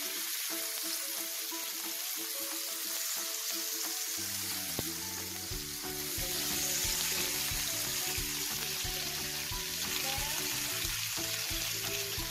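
Thin beef slices sizzling on a hot ridged grill pan, with a chicken strip frying in oil: a steady frying hiss. Background music plays underneath, its bass coming in about four seconds in.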